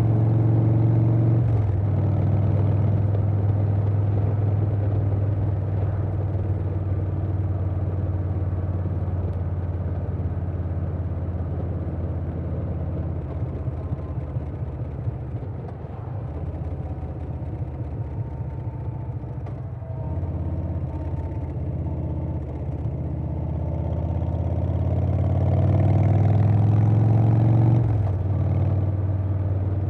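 Harley-Davidson Softail Standard's Milwaukee-Eight V-twin running through Vance & Hines Big Radius 2-2 pipes while riding. The pitch drops at a gear change about a second and a half in, the engine eases off through the middle, then pulls harder with rising pitch and drops again at another shift near the end.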